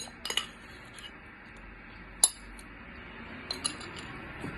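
Cutlery clinking against a bowl or plate a few times while eating, the sharpest clink a little past two seconds in, over a steady low room hum.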